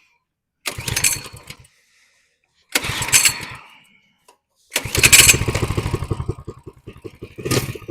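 Coleman 100cc minibike's small single-cylinder engine being pull-started: two short bursts of cranking, then on the third pull, about five seconds in, it catches and keeps running with a rapid, even beat.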